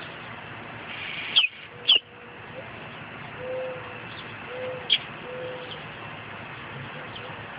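Baby mockingbirds chirping: two loud, sharp, downward-sliding chirps a little over a second in, then several fainter ones. A few soft, low, hooting notes sound in the background midway.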